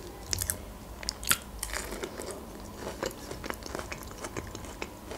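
Close-miked biting and chewing of fresh peach slices: wet mouth clicks and smacks, with a louder bite a little over a second in.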